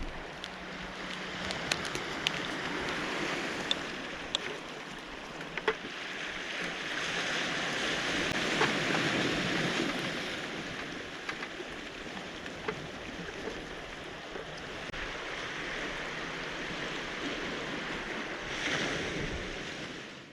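Sea waves washing onto a cobble-stone beach, the surf swelling about halfway through and again near the end, with scattered sharp clicks throughout.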